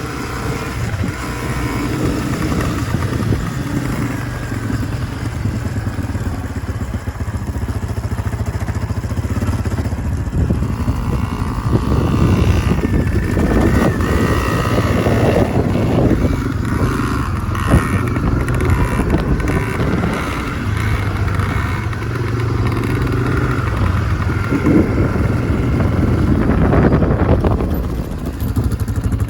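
Yamaha PW50 kids' dirt bike's small two-stroke engine running as the bike is ridden, its note shifting up and down with the throttle.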